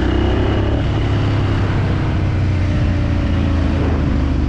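Motorcycle engine running at a steady cruise, its pitch easing down slightly, with wind rushing over the helmet microphone.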